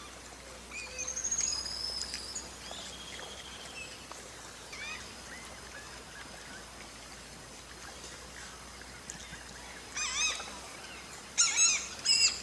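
Birds calling over the steady background hum of tropical forest: scattered high whistles and a falling trill, then louder bursts of sharp, repeated calls near the end.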